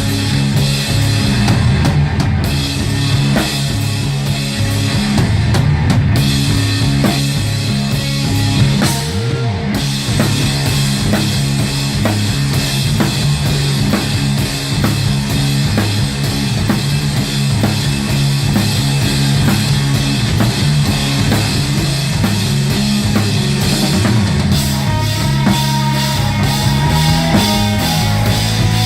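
Live rock band playing loud, with a drum kit driving a steady beat over a heavy, shifting bass line.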